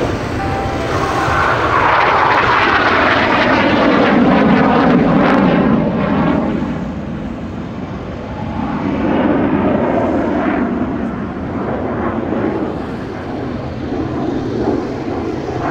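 BAE Hawk T.65A jet trainers flying past, their turbofan engines giving a loud rushing jet noise. The sound swells and drops in pitch as they pass, fades, then swells again about two-thirds of the way through.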